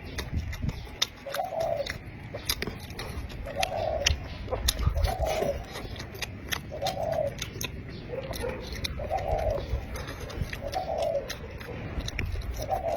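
A dove cooing over and over, one short low coo about every two seconds, with sharp clicks close by in between.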